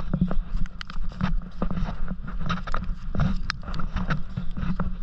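Storm wind buffeting the microphone in a heavy downpour, a constant low rumble, with many irregular sharp taps of rain striking close by.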